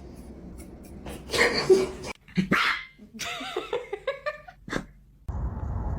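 A pet dog vocalizing: two short, loud, noisy barks about a second in, then a run of wavering calls that bend up and down in pitch. Near the end the sound cuts abruptly to a steady low rumble.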